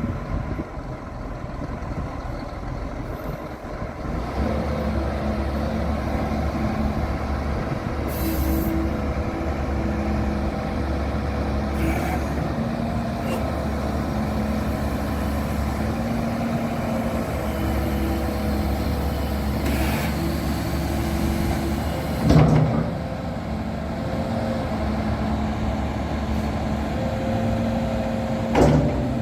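Doosan DX360LCA excavator's diesel engine running, with steady whining tones that come and go every few seconds as the hydraulics work. Two loud clunks land about three quarters of the way in and near the end.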